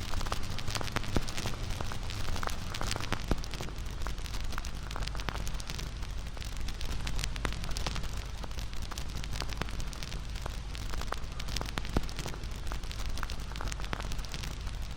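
Wood campfire burning with a steady low rumble of flames and frequent sharp crackles and pops throughout.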